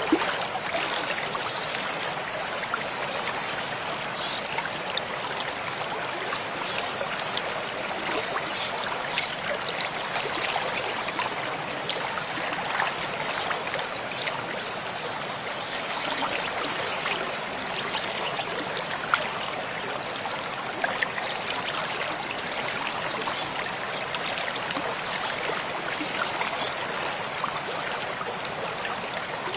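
Mountain stream flowing over rocks: a steady rush of water with small splashes and trickles running through it.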